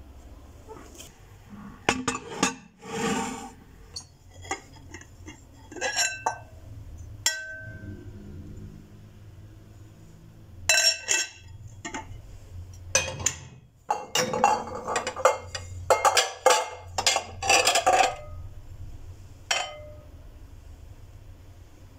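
Dishes and glassware being handled: irregular clinks and clatter, busiest in the second half, some clinks leaving a brief ringing tone.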